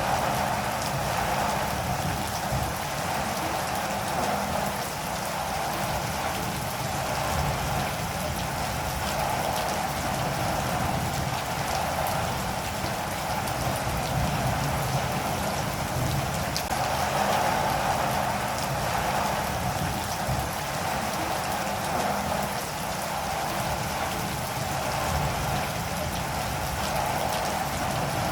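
Steady rain falling and pattering on a surface, with scattered drop ticks, swelling slightly and easing at times.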